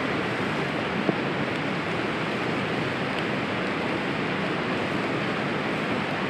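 A steady rushing hiss with no clear rhythm, and one sharp click about a second in.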